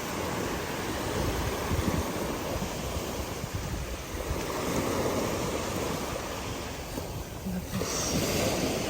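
Sea surf washing in steadily, with wind gusting on the microphone; the higher hiss of the water thins briefly about seven seconds in.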